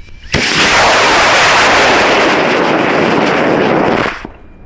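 Bruiser EXP high-power rocket's motor igniting and burning. It is a loud, steady roar that starts suddenly within the first half second, holds for nearly four seconds, then cuts off abruptly at burnout.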